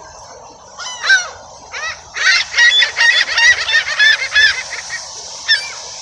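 Gulls calling: a few single squawks, then a quick run of about a dozen calls in the middle, then one more squawk near the end.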